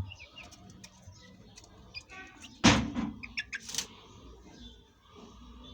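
Domestic birds in their pen giving scattered short chirps. A sudden loud thump comes about two and a half seconds in, followed by a few sharp clicks.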